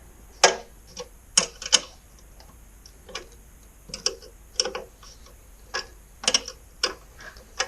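Irregular sharp clicks and clinks of a hand wrench and metal parts being handled while unbolting a garage door opener's gear housing, about a dozen in all, some in quick pairs.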